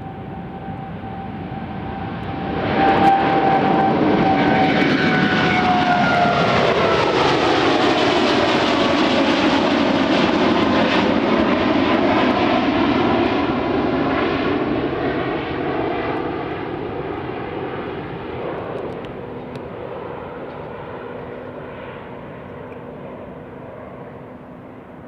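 Boeing 777-9's GE9X turbofan engines at departure power as the jet passes the listener: the sound swells sharply a few seconds in, its engine tones fall in pitch as it goes by, then it fades slowly as the aircraft moves away.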